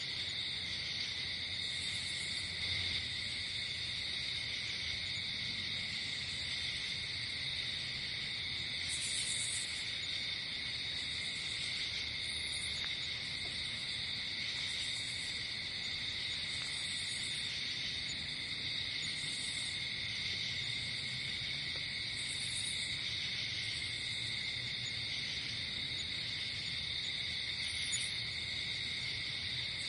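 Night chorus of crickets and other insects: a steady, unbroken trilling at several pitches, with short, higher buzzing calls coming in every two to three seconds.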